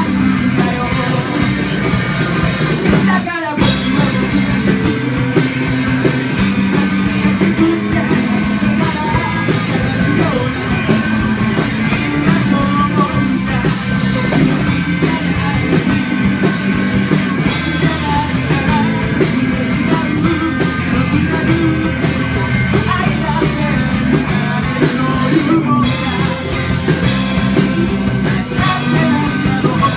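Rock band playing a song with a singer, electric guitar and drums, with two very short breaks in the sound, about three seconds in and near the end.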